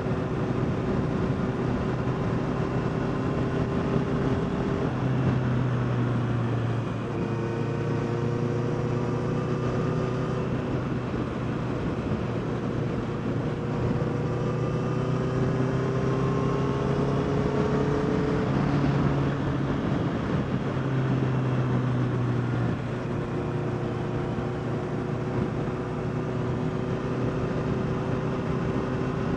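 Honda CBR650R's inline-four engine running under way. Its pitch steps up and down several times, with a longer rise about two-thirds of the way through that then drops, as the throttle and gears change.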